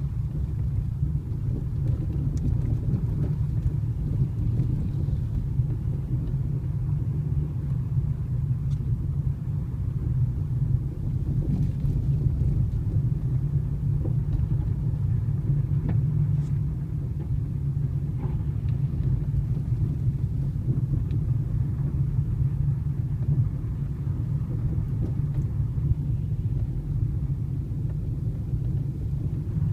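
Hyundai Solaris driving over an uneven road: a steady low road rumble with an occasional faint knock, the knock from the steering rack on the right side that shows itself over bumps.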